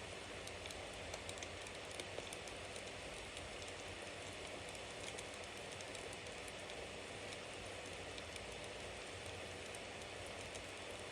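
Bonfire burning with a steady hiss of flames and frequent small crackles and pops from the wood, with a couple of louder pops about one and two seconds in.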